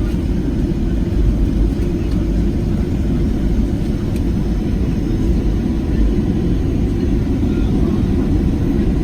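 Steady low cabin drone of a Boeing 737-700 airliner, with its CFM56 jet engines and airflow heard from inside the passenger cabin.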